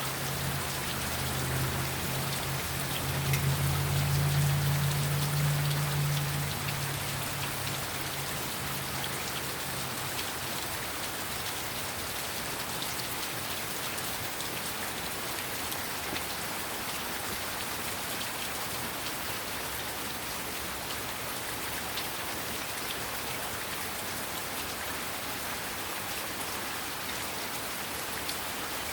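Heavy rain falling steadily, with many drops pattering on surfaces. Under it, in the first several seconds, a low hum swells and then fades away by about ten seconds in.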